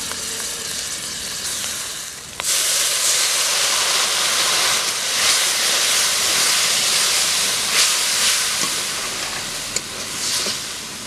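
Wet spice paste sizzling and hissing in hot oil in a metal wok with fried fish and onions, stirred with a metal spatula. The sizzle jumps louder about two seconds in, and a few short spatula scrapes come near the end.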